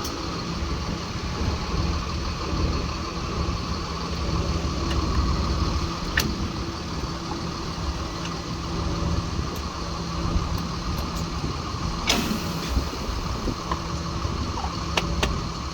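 Jet fuel truck's engine idling steadily with the PTO engaged, with a few sharp clicks and a short burst of noise about twelve seconds in from hose and fitting handling.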